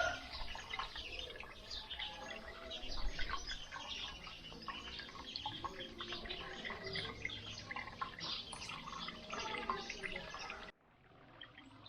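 Outdoor village ambience with small birds chirping and many faint clicks; the background drops suddenly to a quieter level near the end.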